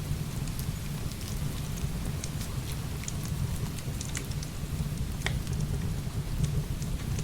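Heavy rain falling steadily over a low, constant rumble, with scattered sharp crackles from burning firewood, one standing out about five seconds in.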